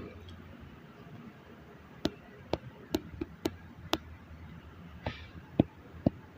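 A run of sharp taps: five in quick succession about two seconds in, then two more near the end, over a faint steady background hiss.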